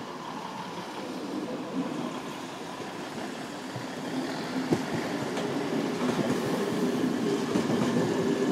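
Trains moving over the station tracks: a yellow maintenance train pulling away while red locomotives come in behind it. The rolling noise grows louder, with a sharp clack about four and a half seconds in and a steady high whine through the second half.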